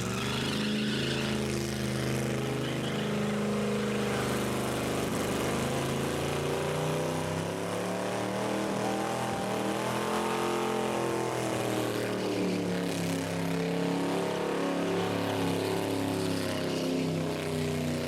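Rat rod engine running hard and revving, its pitch climbing to a peak about ten seconds in and then falling back.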